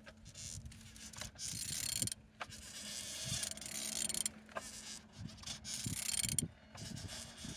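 Renault K9K diesel engine being turned over by hand, giving irregular mechanical clicks and scrapes over a faint steady hum. It turns freely, the sign of an engine that is not seized.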